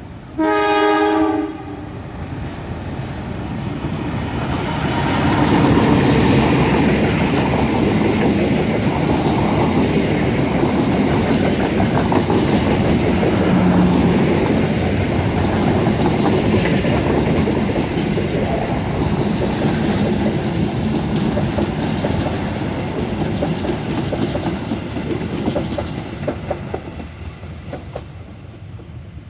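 Diesel locomotive horn sounds once, briefly, as the train approaches. Then a passenger train passes close by: the locomotive's engine and the steady rumble and clatter of its coaches on the rails, fading out near the end.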